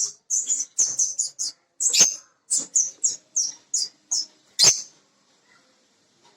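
A bird chirping in a quick series of sharp, high notes, about three a second, that stops about five seconds in.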